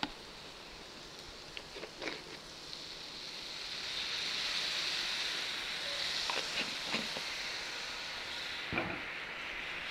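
Onion-tomato masala sizzling in oil in a frying pan after a splash of water, a steady hiss that swells a few seconds in, with a few light clicks of a metal spatula against the pan.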